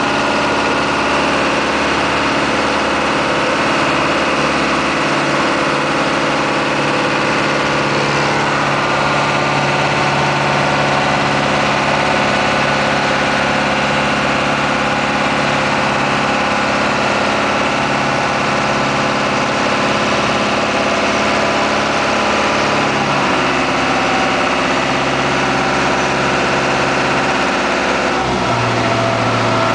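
Small ferry boat's engine running steadily, its pitch shifting a few times as the engine speed changes, with a clear change near the end.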